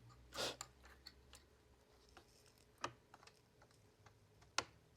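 Scattered plastic clicks and knocks from a robot vacuum's parts being handled as its battery is fitted: a louder knock about half a second in, then a few sharp clicks, the strongest near the end.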